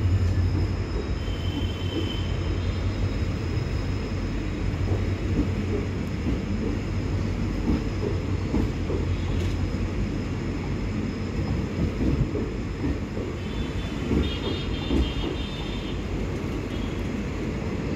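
Passenger train coaches rolling along a station platform: a steady low rumble of wheels on the track with irregular clacking.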